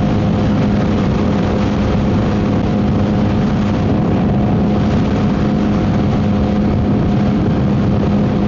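Yamaha MT-09 SP's inline-three engine running through a Dominator GP aftermarket exhaust at steady revs while riding, with a lot of wind noise on the microphone.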